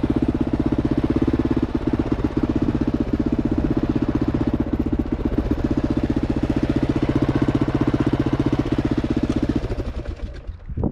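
Kawasaki KLR 650's single-cylinder engine running steadily with an even, fast thumping beat, then stopping near the end.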